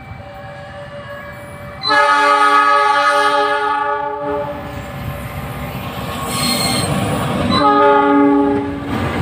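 Train horn sounding two long blasts, the first about two seconds in and lasting over two seconds, the second shorter near the end, over the running noise of the passing train.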